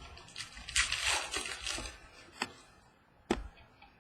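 Trading cards being handled during a pack break: a rustling scrape about a second in, then two short sharp clicks.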